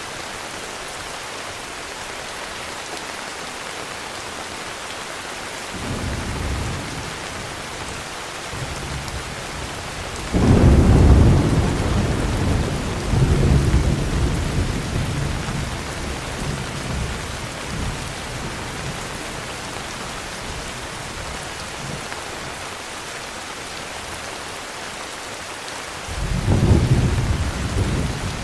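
Heavy rain falling steadily, with rolls of thunder: a soft rumble about six seconds in, a sudden loud rumble about ten seconds in that swells again and rolls on for several seconds, and another rumble near the end.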